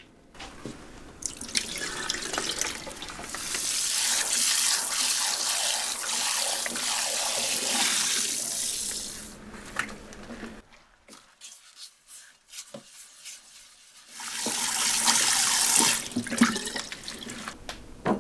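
Kitchen tap running into a sink in two spells, a long one and then a shorter one, with small knocks and clicks in between and after.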